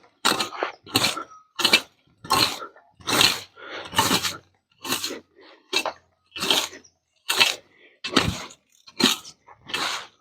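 A rake scraping across the ground and cut grass in repeated short strokes, about two a second.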